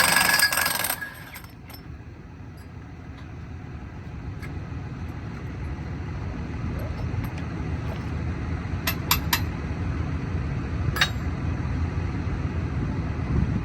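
Track work at a railroad diamond crossing. A loud, noisy burst cuts off about a second in. A low, vehicle-like rumble then slowly builds, with a few sharp metal clinks near the middle.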